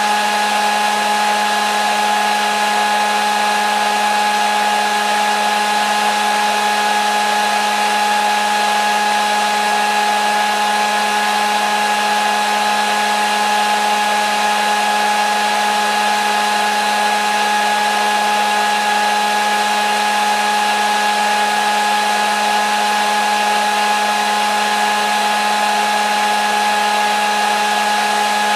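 Hair dryer running steadily: a constant rush of air over a steady motor whine, unchanging in pitch and level.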